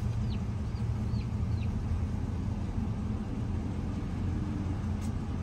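Car engine idling, a steady low rumble heard from inside the cabin, with four short, faint, falling chirps in the first second and a half.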